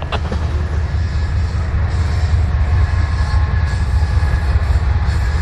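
A freight train passing close by: a steady, loud low rumble of wheels and locomotives on the rails, with a faint thin high tone through the second half.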